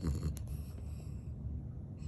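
Shih Tzu–Bichon mix dog snoring in its sleep: the end of one low snore, then a quieter breath between snores.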